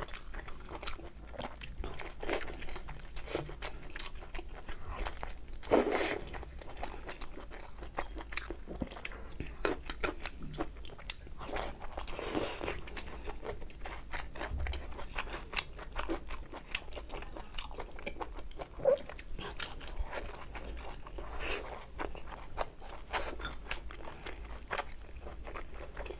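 Close-miked chewing and biting of a stuffed braised intestine: a steady run of short wet clicks and smacks, with louder bites about six and twelve seconds in.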